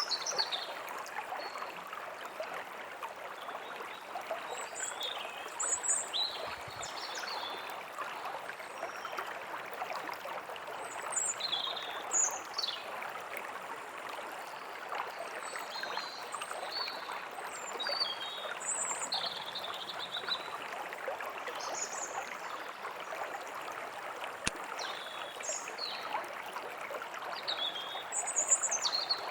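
A forest stream flowing steadily, with small birds chirping and whistling short notes on and off over it.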